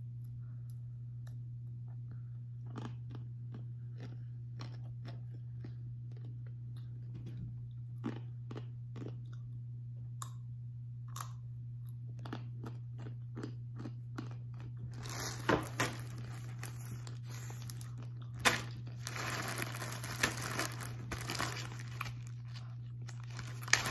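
Close-up chewing of crunchy hard-coated peanuts: scattered crisp crunches, growing denser and louder over the last third, over a steady low hum.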